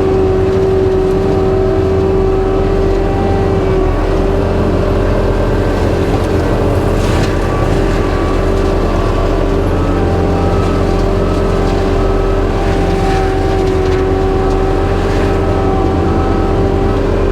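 Skid steer running at high throttle with a forestry mulcher attachment spinning, giving a loud steady drone with a high whine held on one pitch. A few short noisy crackles sound now and then.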